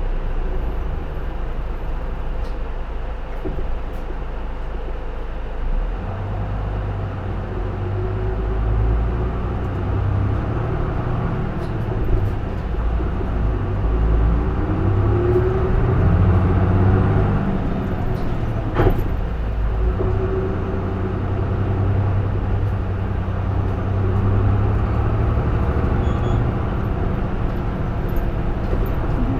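Diesel engine of a J-Bus PKG-LV234L2 (Isuzu Erga) city bus heard from inside the cabin while the bus is under way, with the heater running. The engine note climbs in pitch from about eight seconds in to around seventeen seconds, breaks with a gear change, and then runs steadily. There is a single sharp knock near the change.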